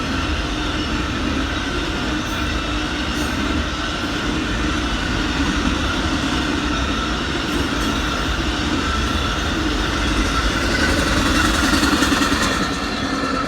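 Cars of the Amtrak Auto Train rolling past at speed: a steady rumble and clatter of wheels on the rails with a thin steady ring above it. It grows louder toward the end, then drops off suddenly.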